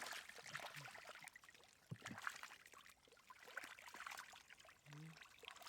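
Faint trickling water with many small splashes and clicks.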